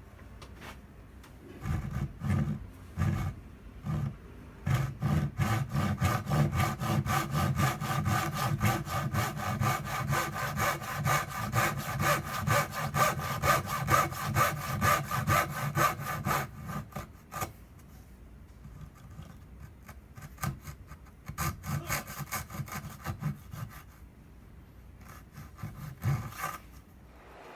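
Hand saw cutting wood in quick, even back-and-forth strokes. A few separate strokes come first, then a long steady run, then shorter bursts of sawing with pauses near the end.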